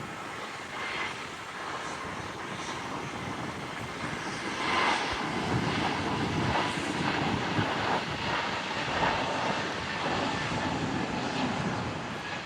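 Airliner engines passing on the airport, a wide steady noise that grows louder about four seconds in and stays up, with a faint steady whine over it.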